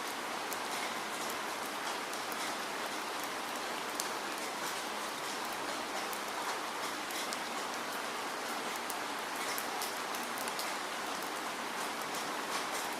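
Steady rain falling, a constant hiss with many small drop ticks on a surface.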